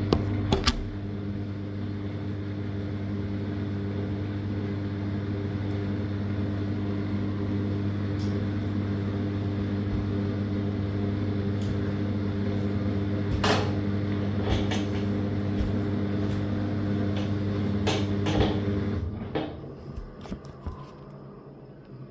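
Living & Co 5.5 kg top-load washing machine's drain pump humming steadily during the last pump out at the end of the cycle, with a few sharp clicks. The hum cuts off about nineteen seconds in.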